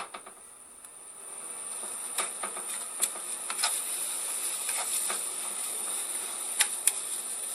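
Kimchi, Spam and tuna stir-frying in oil in a wok: a steady sizzle that builds about a second in. Now and then the rice paddle clicks and scrapes against the pan as the food is stirred.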